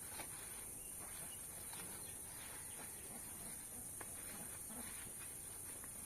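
Steady high-pitched insect chorus, crickets in summer, with scattered light clicks and faint brief chirps.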